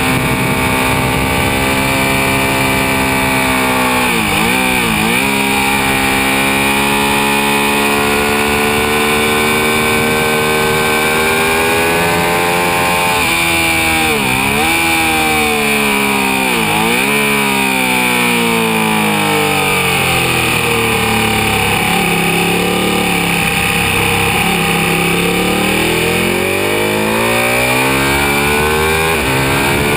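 Ducati 1199 Panigale's 1198 cc Superquadro L-twin engine heard from on board at high revs, its note dipping sharply and recovering three times. About eighteen seconds in the revs fall away for several seconds as the bike slows, then climb again near the end as it accelerates hard.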